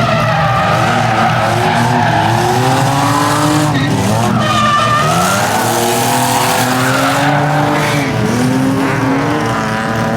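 A drift car's engine revving hard, its pitch rising and falling repeatedly, with tires squealing as it slides.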